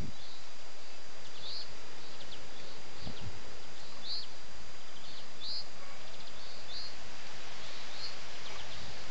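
A small bird chirping repeatedly, short high calls about every second, over a steady hiss, with one soft thump about three seconds in.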